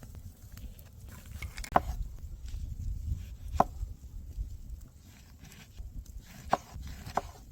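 A few sharp, irregularly spaced knocks, four in all, over a steady low rumble.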